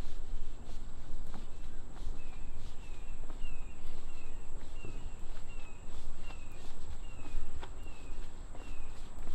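A bird calls a short, high, slurred chirp over and over, roughly every half second, starting about two seconds in. Under it are scattered footstep clicks and a low rumble on the microphone.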